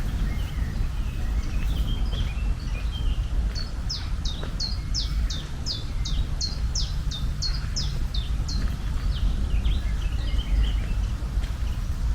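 A songbird singing a quick series of about fifteen short down-slurred whistled notes, about three a second, with scattered chirps before and after it. Underneath is a steady low rumble.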